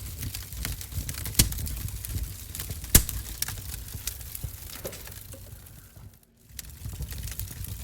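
Wood-burning stove fire crackling, with scattered sharp pops, two of them loud about one and a half and three seconds in, over a low rumble. The sound drops out briefly about six seconds in.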